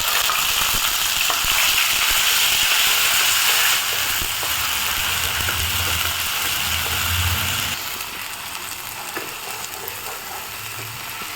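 Ground onion paste sizzling as it fries in hot oil and ghee in a kadai. The sizzle eases down a little under eight seconds in.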